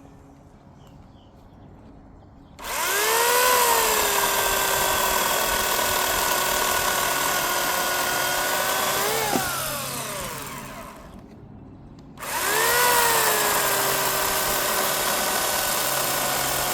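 Electric chainsaw running in two bursts as it cuts into a tree trunk log. Each burst starts with a brief rise and dip in pitch, then holds a steady whine; the first stops about nine seconds in and winds down, and the second starts a few seconds later.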